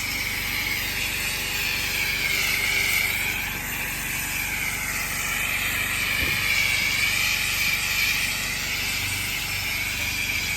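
Pressure washer with a turbo (rotating) nozzle blasting thick moss out of the gaps in block paving: a steady spray hiss with a whine whose pitch slowly rises and falls as the jet moves.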